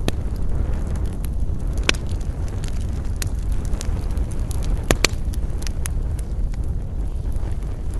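Wood campfire burning, crackling with scattered sharp pops, the loudest about two seconds in and about five seconds in, over a steady low rumble of wind.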